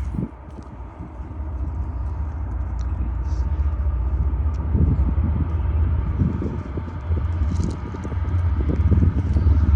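CSX freight train's low rumble growing louder, with irregular knocks from wheels passing over the track.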